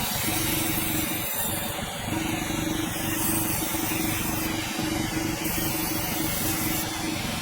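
Sawmill running steadily: a constant mechanical hum under a hiss of noise, with no separate strikes.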